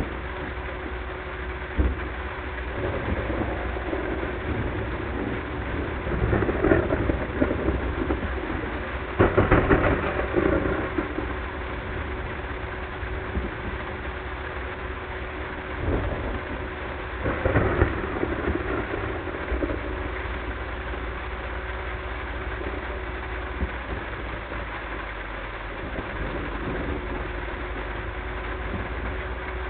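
Heavy thunderstorm rain and thunder heard from a car, over the steady noise of its engine and the road, sped up to double speed. A few louder swells rise out of it, the strongest about ten seconds in.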